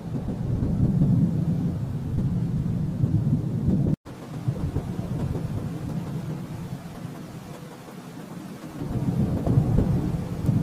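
Thunder rumbling low and long. It swells in at the start, eases off through the middle and builds again near the end, with a split-second cutout about four seconds in.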